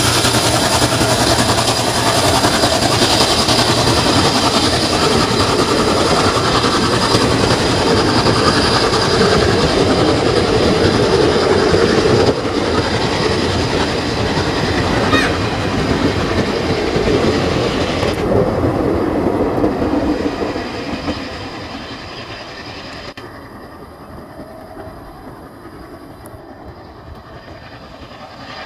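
Passenger coaches of a long train rolling past at speed, wheels clattering on the rails. About twenty seconds in the sound drops away and stays much fainter as the train draws off.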